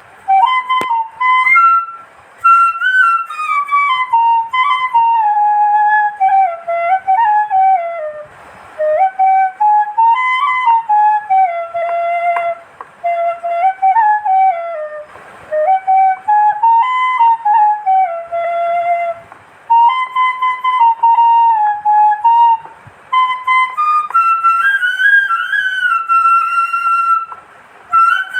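Background music: a solo flute playing a slow melody that moves stepwise up and down, in short phrases with brief pauses between them.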